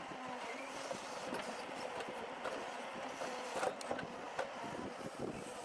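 Heavy machinery's engine running steadily, with scattered clicks and knocks.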